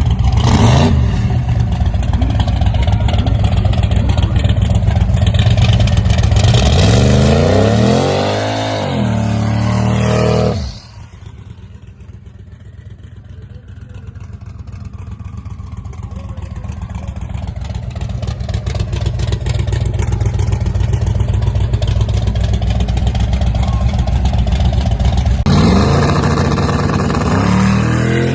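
Loud racing engines at a drag strip. One revs with its pitch rising and falling, then the sound cuts suddenly about ten seconds in to quieter engine noise that slowly builds. Near the end a loud engine comes back in, revving again.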